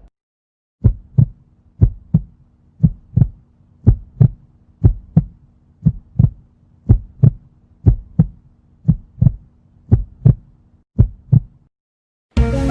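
Heartbeat sound effect: a steady lub-dub of paired thumps about once a second, eleven beats, over a low steady hum. It stops about a second before the end, and music starts right after.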